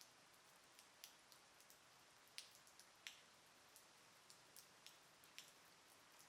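Light rain: a faint steady hiss with scattered single drops ticking sharply at irregular moments, the loudest a little over two and three seconds in.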